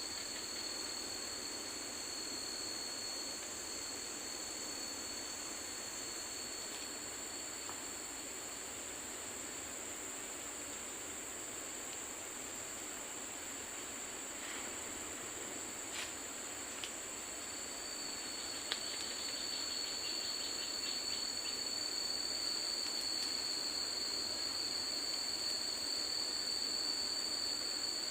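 Forest insects droning steadily in two high-pitched tones over a constant hiss, the drone growing a little louder about two-thirds of the way in. A few sharp clicks and a short run of rapid ticks are heard just past the middle.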